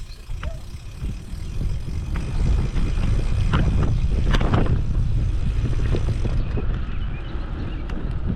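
Wind buffeting the microphone of a camera on a moving bicycle: a steady low rumble that gets louder about two and a half seconds in, with a few light clicks and rattles from the bike.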